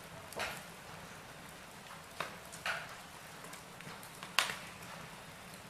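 Wood fire crackling in a fireplace: four sharp pops and snaps over a low steady hiss, the loudest about four seconds in.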